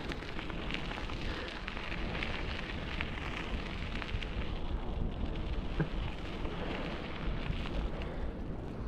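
Bicycle ride noise: tyres rolling over a rough surface with a steady crackle of small ticks, and wind rumbling on the microphone.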